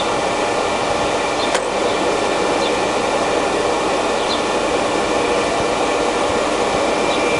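Mistal RML 600 universal cylindrical grinder ticking over with its grinding wheel head and work head both running: a steady mechanical hum with a faint high whine, and a single sharp click about a second and a half in. It runs quietly and smoothly, which the seller takes for a machine in good working order.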